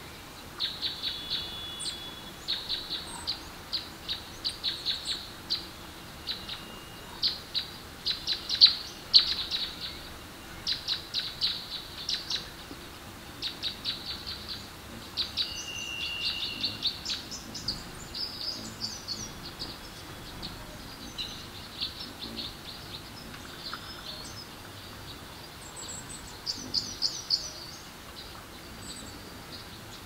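Forest birds chirping: quick series of high chirps repeated again and again, several birds overlapping, over a faint steady background hiss.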